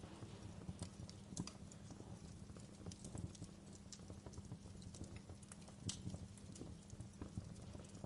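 Wood fire crackling in a fireplace: irregular sharp pops and snaps over a low, steady rumble. The loudest pops come about a second and a half in and about six seconds in.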